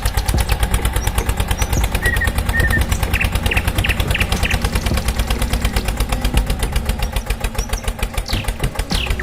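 Tractor engine running at idle with a fast, even putter, with birds chirping a few times.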